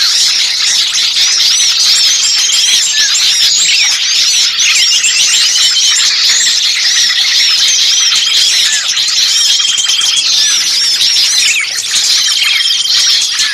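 Many small songbirds calling at once in an agitated, dense chorus: rapid high chirps overlapping without pause, with short trills coming back every second or two. It is a bird-lure recording of noisy small birds with a caught bird's distress calls, played to draw in other birds.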